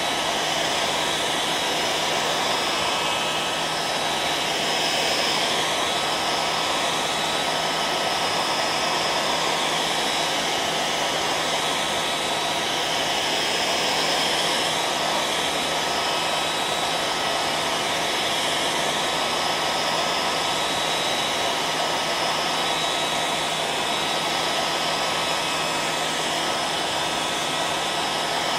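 Electric hair dryer running steadily, a continuous rushing blow of air with a steady motor hum and a faint whine over it.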